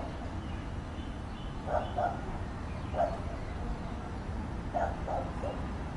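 A dog barking in short yaps, singly and in groups of two or three, over a steady low rumble.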